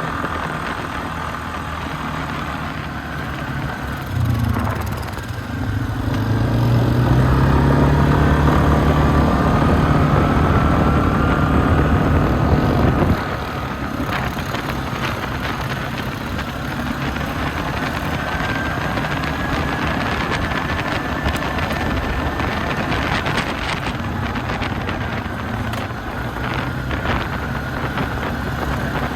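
ATV engines running on a trail ride. A louder engine comes up and climbs in pitch from about four seconds in, then drops away suddenly near the middle, leaving a steadier engine drone with a whine that slides up and down and scattered knocks.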